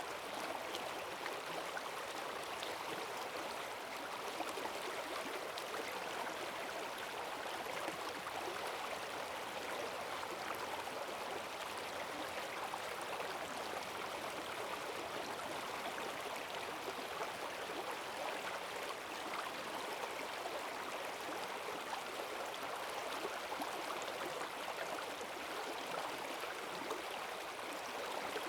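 Forest stream swollen by heavy rain, its strong current rushing and gurgling steadily.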